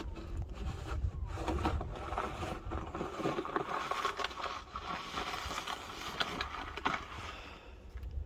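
Snow shovel scraping and pushing powdery snow along a driveway in repeated strokes, with a sharp knock of the blade near the end.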